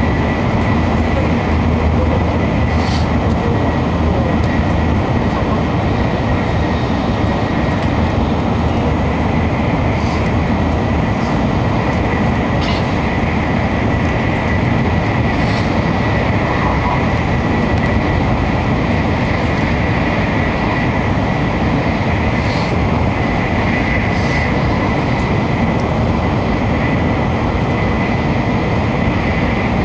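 Shinkansen bullet train heard from inside the passenger cabin at speed: a steady, rather loud running noise of wheels on rail and rushing air, with a faint high steady whine. A few faint short ticks come and go.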